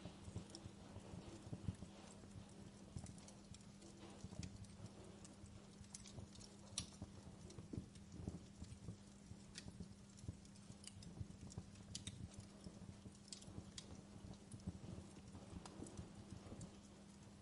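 Wood fire crackling softly, with sharp pops and snaps at irregular moments over a low steady hum.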